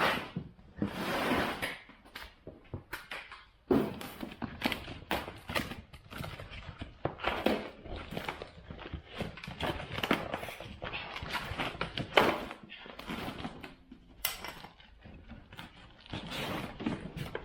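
Irregular knocks, clunks and rustling of a winch and its parts being handled and unpacked, with a sharper knock about four seconds in and another about twelve seconds in.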